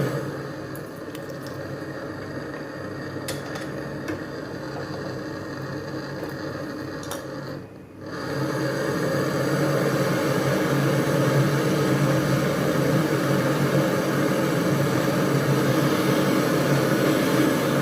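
A steady machine whir. It is quieter for the first eight seconds with a few faint clicks, drops out briefly, then runs louder.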